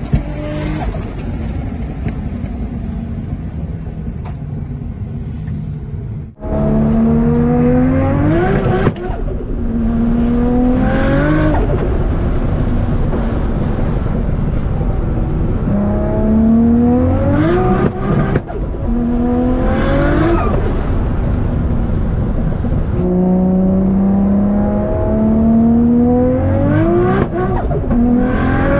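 Turbocharged 2.6 L stroker RB25 straight-six in a Nissan Skyline R33 GTST under hard acceleration. The engine note holds, then climbs steeply in revs several times in a row, and each climb is broken off abruptly.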